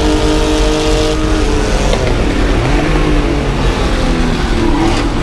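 Vintage race car engine running hard at high revs, its pitch dropping about a second in as the driver lifts or shifts, then engine notes rising and falling over road and wind rumble.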